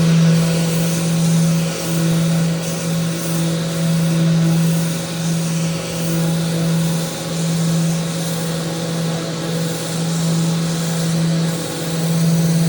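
Electric sander running on a wooden handrail: a steady motor hum over a sanding hiss, swelling and dipping about once a second as the sander is worked along the rail.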